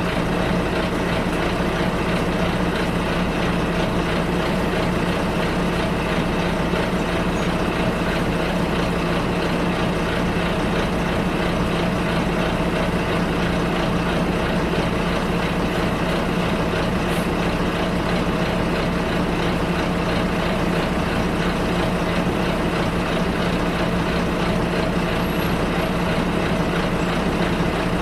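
Bus engine running steadily, heard from inside the passenger cabin: an even, low drone mixed with road and cabin noise, with no change in speed or pitch.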